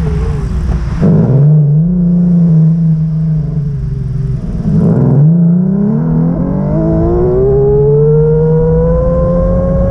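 A vehicle accelerating: its engine pitch dips and climbs again twice, about a second in and about five seconds in, then rises steadily in a long whine.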